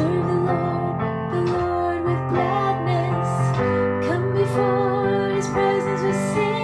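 A woman singing a slow melody with vibrato over sustained piano chords, in a C major, A minor, F, G progression.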